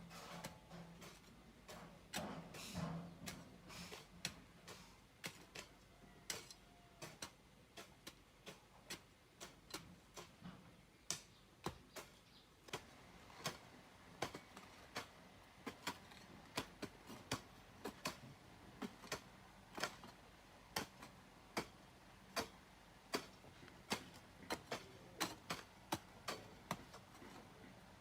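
Faint, sharp ticks or taps repeating at an uneven pace, roughly one or two a second.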